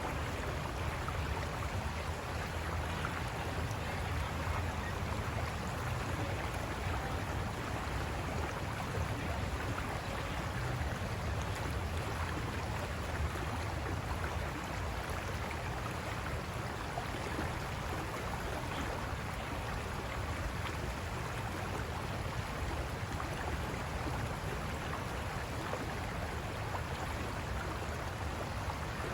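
River water rushing over rocks: a steady, unbroken noise with no single splashes standing out.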